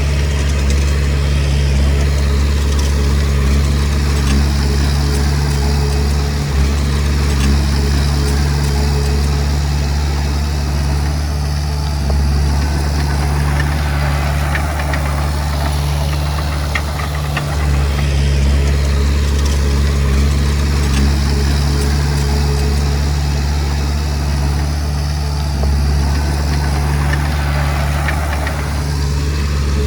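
Diesel engine of a Komatsu D20P bulldozer running steadily under work, with a deep, even hum; a rougher grinding noise swells twice, about halfway through and again near the end.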